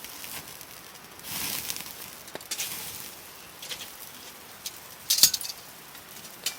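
Sausages and bacon cooking over a campfire: short hissing sizzles with scattered crackles, and one sharp, loud pop a little after five seconds in.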